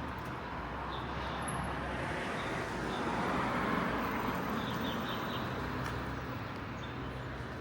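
Street traffic noise, with a vehicle passing that swells to its loudest about halfway through and then fades.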